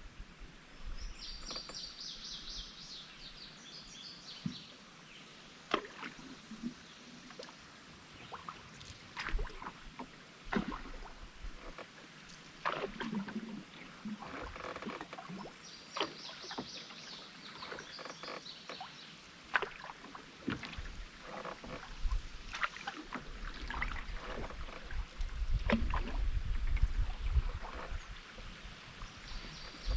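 Canoe paddling: sharp knocks of the paddle against the canoe and splashes of water at irregular intervals, with two spells of high chirping from wildlife along the bank. Near the end a low rumble builds for a few seconds.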